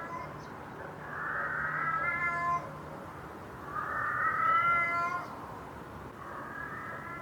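An animal giving three drawn-out, meow-like wailing calls a little over a second long each, the middle one the loudest.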